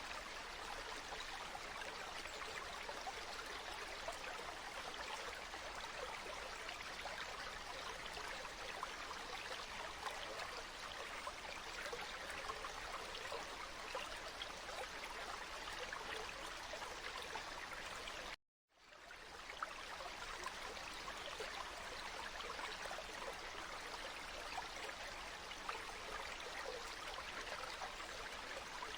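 Flowing water running steadily, with a fine trickling, splashing texture. About two-thirds of the way through it cuts out completely for a moment and then fades back in, the join of a looped recording.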